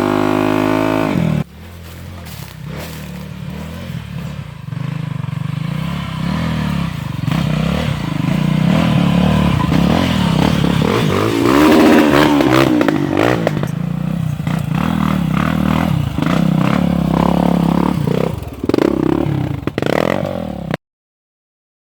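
Dirt bike engines running on a trail ride, rising and falling in pitch as the throttle is worked, with rattling and scraping along with them. The sound drops suddenly just over a second in and cuts off abruptly near the end.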